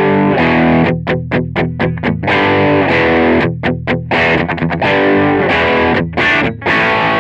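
Electric guitar played through the Donner MultiPad-100 multi-effects processor's Overdrive amp-simulator channel, with the flanger off. Distorted chords ring out, alternating with bursts of short, chopped stabs, and the playing stops sharply near the end.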